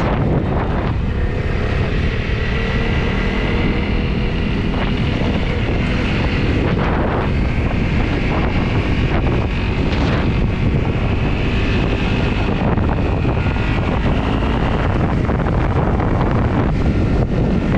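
Honda CRF250's single-cylinder four-stroke engine running steadily while riding, with heavy wind buffeting the microphone.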